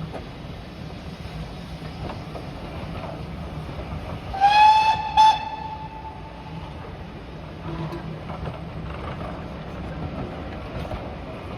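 Steam locomotive whistle sounding about four seconds in: a blast of roughly a second that rises slightly in pitch as it opens and ends with a short second pip. Under it is the steady rumble of a train.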